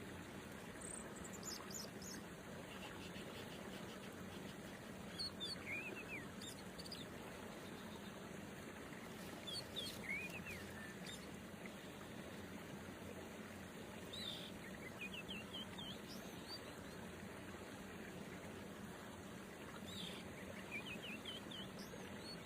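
Small birds chirping in short runs of quick, bending notes that come back every few seconds, over a faint steady outdoor hum.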